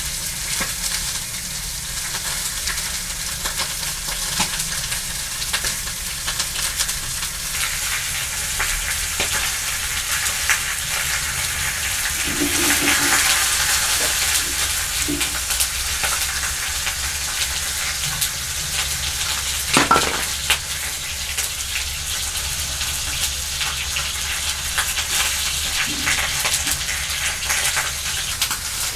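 Food sizzling as it fries in a pan: a steady hiss that swells for a couple of seconds midway. Scattered light clicks run through it, and one sharp knock about two-thirds of the way in is the loudest sound.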